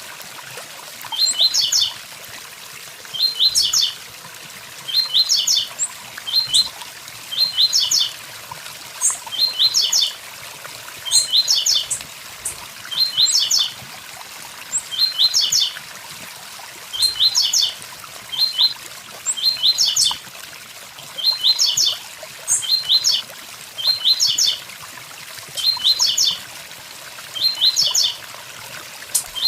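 Blue-black grassquit (tiziu) singing its 'tui tui zel zel' song: a short phrase of a few quick, high, falling notes, repeated every second or two. It sings over the steady rush of a waterfall.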